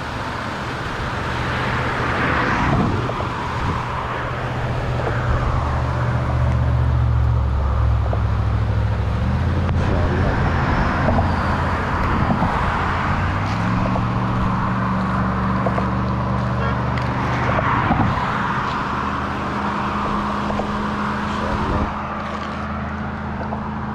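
Car engine running with road noise from a moving car. The engine note drops about nine seconds in and rises again a few seconds later.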